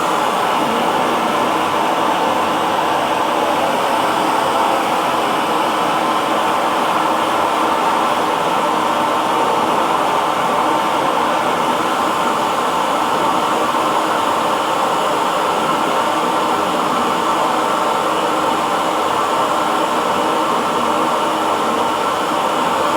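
Hair dryer running steadily: a constant rush of blown air with a faint motor hum, unchanging throughout.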